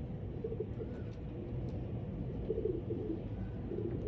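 Domestic pigeons cooing: several short, low coos over a steady low background rumble.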